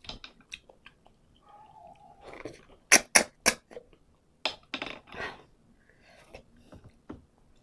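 Close-miked chewing with wet lip smacks and mouth clicks: a quick run of three sharp smacks about three seconds in, and another cluster a second and a half later.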